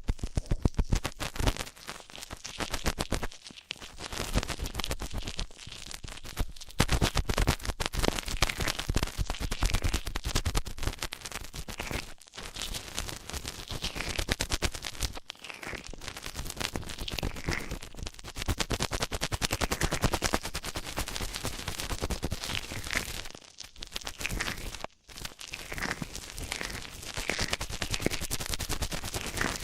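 Dense, rapid crackling and scratching pressed right up against a microphone's ear: ASMR ear cleaning.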